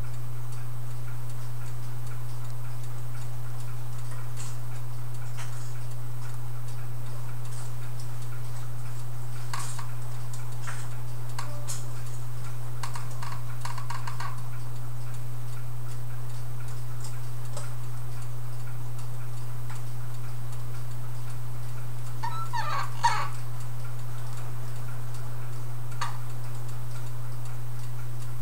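A steady low hum with scattered small metallic clicks and taps at irregular intervals, likely parts of an antique clock being handled during disassembly. There is a short cluster of clicks about 22 seconds in.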